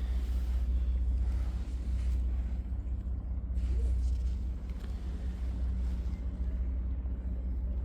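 Steady low rumble with a faint hum, unbroken throughout.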